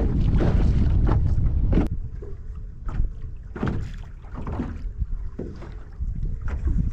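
Wind buffeting the microphone in a small boat on open water, heavy for about the first two seconds and then easing. Scattered light knocks and splashes against the hull follow.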